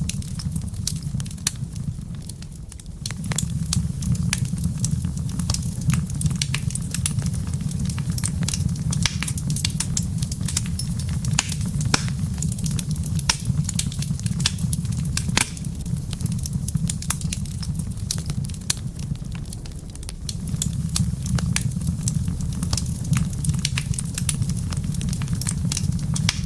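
Wood fire in a fireplace crackling, with irregular sharp pops and snaps over a steady low rumble that briefly drops away twice.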